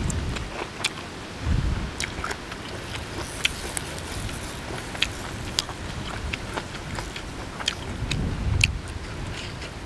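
A person chewing crunchy food, with scattered sharp crunching clicks, while wind buffets the microphone in low gusts about a second and a half in and again near the end.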